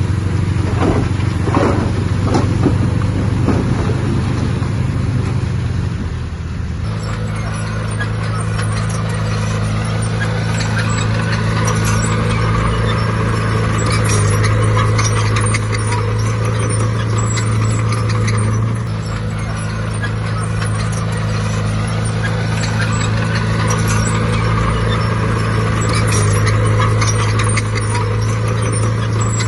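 Diesel engine of heavy earthmoving equipment running steadily with a low drone and light metallic clatter. The sound changes abruptly about seven seconds in, then carries on much the same.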